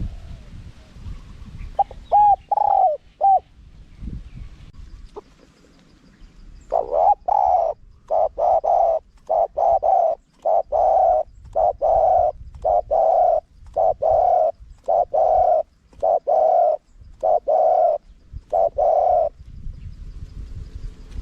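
Spotted dove cooing: a few short coos about two seconds in, then from about seven seconds in a long run of evenly spaced coos that stops near the end.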